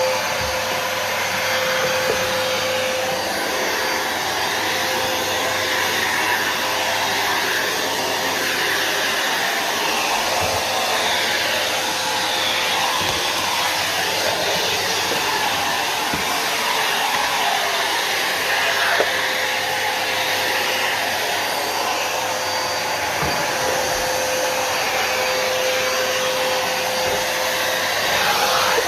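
Numatic Nuvac VNP180-1 vacuum cleaner running steadily while vacuuming, a constant rushing motor noise with a faint steady whine and a few light knocks.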